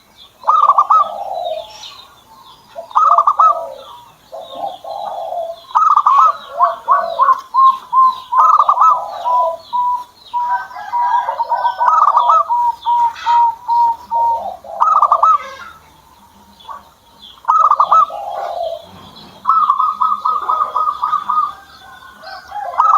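Zebra dove (perkutut) singing: repeated bouts of its rolling coo phrases, some running into quick series of short, evenly spaced notes. Faint high chirps sound behind it.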